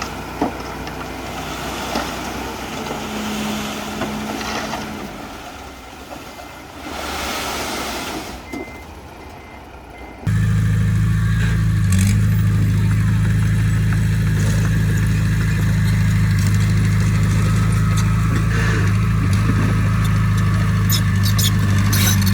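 Diesel engine of heavy construction equipment running steadily and loudly at close range, cutting in abruptly about ten seconds in after a quieter stretch of mixed machine noise.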